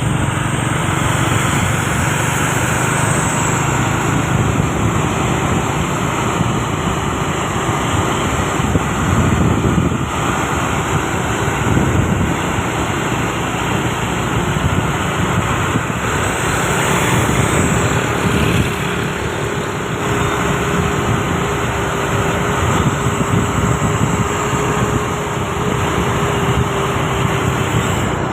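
Motor vehicle engines running steadily with road traffic noise, a continuous low rumble and no distinct events.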